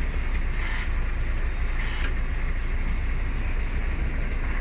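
A large diesel vehicle's engine running steadily with a deep, low rumble, with a hiss that swells briefly a couple of times over it.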